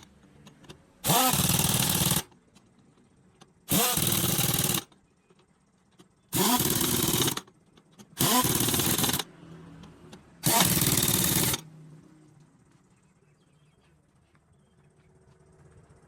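Pneumatic impact wrench run in five short bursts of about a second each, every two seconds or so, each spinning up with a rising whine, as wheel nuts are worked on.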